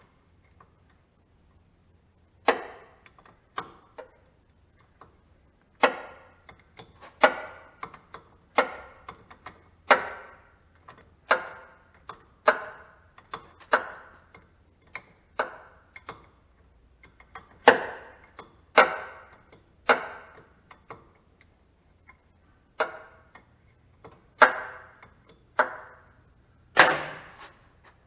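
Sharp knocks, roughly one a second, about twenty in all, each ringing off briefly. A few strikes are louder than the rest.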